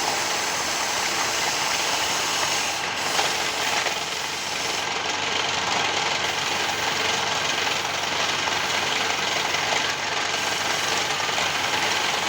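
Wood lathe running and turning wood: a steady, loud, dense cutting noise with a few brief knocks.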